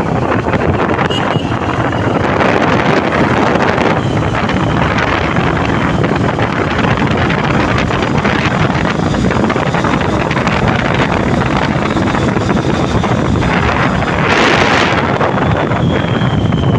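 Steady wind rushing over the microphone of a moving motorcycle, with the bike's road and engine noise underneath, and a brief louder rush about fourteen seconds in.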